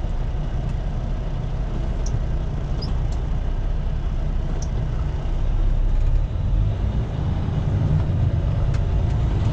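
Diesel engine of an International LT semi truck heard from inside the cab, a steady low rumble that swells slightly about six seconds in, with a few faint clicks.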